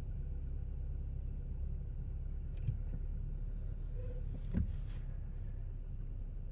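1.4 TSI turbocharged four-cylinder petrol engine idling with a steady low rumble, with two brief knocks, one near the middle and one over a second later. This is the engine that the owner says stumbles as if misfiring just after a cold start, with no check-engine light.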